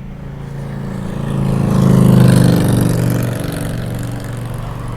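A vehicle engine passes close by, swelling to its loudest about two seconds in and then fading, over a steady background rumble.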